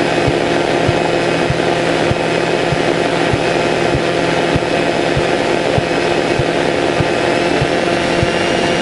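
Cessna 152's four-cylinder Lycoming engine idling on the ground, heard in the cockpit as a steady drone, with a faint low click repeating about every 0.6 s.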